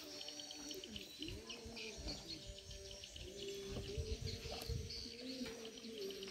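Birds calling: quick high chirps and twitters over lower cooing calls, with intermittent low rumbles underneath.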